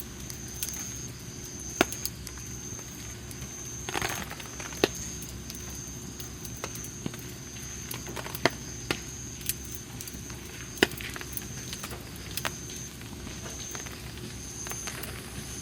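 Wood campfire crackling, with scattered sharp pops and a short hiss about four seconds in. A thin, high, steady note pulses on and off in the background.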